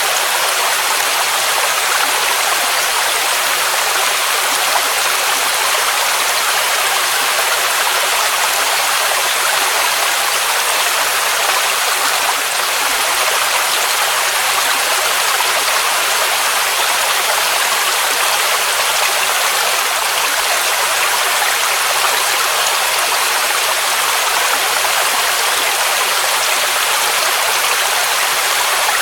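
Waterfall rushing steadily, an even hiss-like wash of falling water with little deep rumble.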